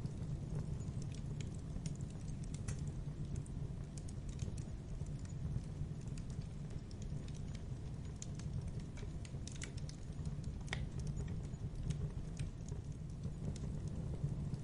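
Fire crackling in a fireplace: a steady low rumble from the flames, with irregular sharp pops and snaps.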